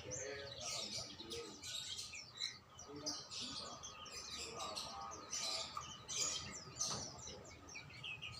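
Several songbirds chirping and singing at once, a dense overlapping chatter of short high calls and trills.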